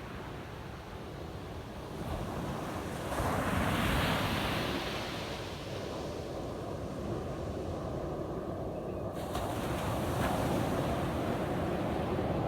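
Ocean waves breaking on a sandy beach: a wave crashes and swells about three seconds in and washes back, and another builds near the end, over a steady wash of surf.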